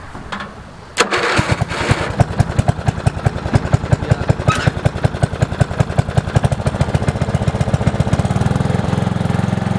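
Lawn tractor engine started by jumping the starter with jumper cables because the starter solenoid doesn't work: a sudden start about a second in, even chugging pulses for about seven seconds, then it settles into a smoother, steady run near the end.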